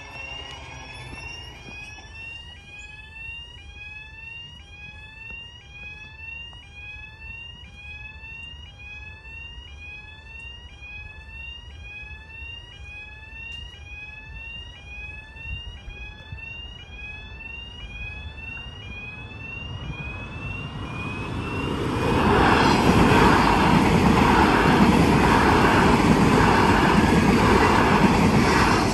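A short electronic tone rising in pitch, repeating about one and a half times a second. From about twenty seconds in, a train approaches and passes loudly, its wheels beating rhythmically over the rail joints.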